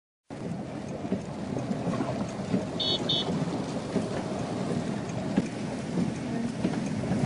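Steady rain with a low rumbling hiss and scattered small patters, after a moment of silence at the start; a short double chirp about three seconds in.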